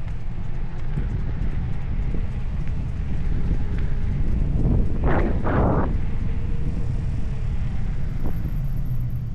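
Wind buffeting the microphone, a steady low rumble, with a short rushing hiss about five seconds in.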